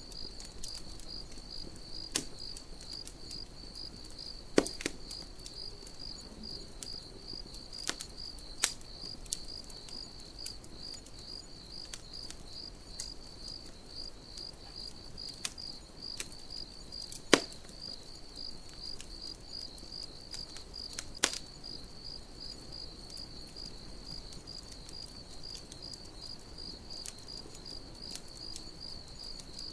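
Crickets chirping in a steady, even high-pitched pulse, over a campfire that crackles with scattered sharp pops, the loudest about 4.5, 17 and 21 seconds in.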